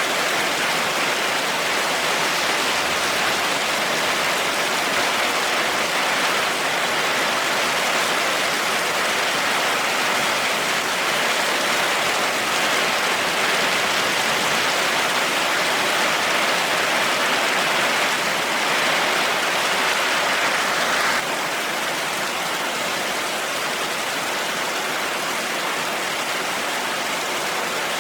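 Heavy rain falling steadily, with no thunder. About three quarters of the way through it abruptly turns a little softer and duller.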